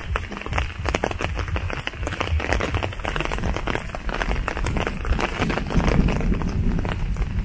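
Rain in a pine forest: many irregular drops ticking close by, over a low rumble from the walker's steps on a wet path.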